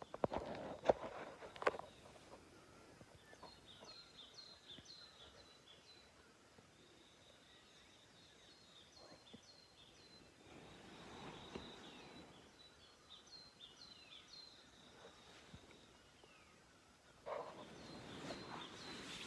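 A wild bird calling outdoors: a long run of short, high, repeated chirps over a faint steady high tone. A few sharp clicks or knocks sound in the first two seconds, and a louder rustle comes near the end.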